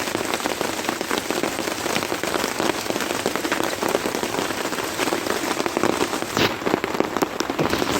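Heavy rain falling, a dense, steady hiss of many separate drop hits; about six and a half seconds in it thins to more scattered drops.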